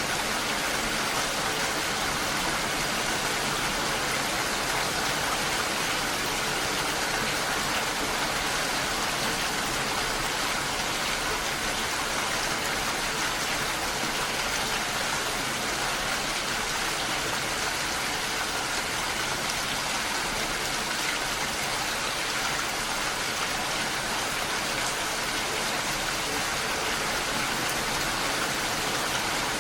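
Gentle rain falling steadily together with the rush of a waterfall: an even, unbroken hiss of water with no changes.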